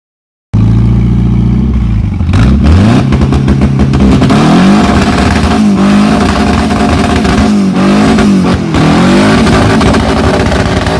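Twin-turbo four-cylinder Honda Integra engine revving hard under acceleration, cutting in suddenly about half a second in, its pitch climbing and dropping several times.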